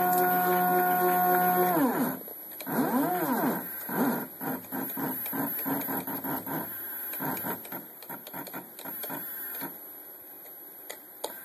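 Stepper motor driving a DIY aluminium CNC Z-axis slide down. It whines at a steady pitch, then winds down and stops about two seconds in. A string of short jog moves follows, each a whine that rises and falls in pitch, and the moves thin out near the end.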